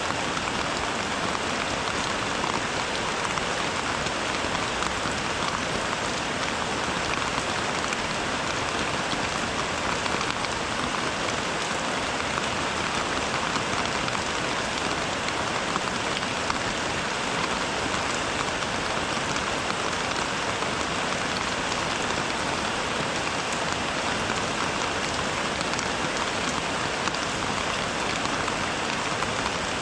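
Rain falling steadily, a dense even patter of drops with no let-up and no thunder.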